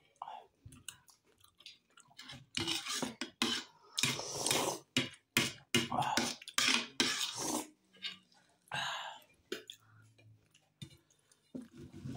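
Close-up chewing of steamed momo dumplings: irregular, wet mouth sounds, with the occasional clink of a steel spoon against a plate.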